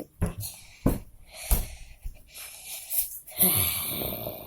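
A person's wheezy, breathy noises, with a few sharp mouth clicks in the first second and a half and a longer breathy stretch near the end.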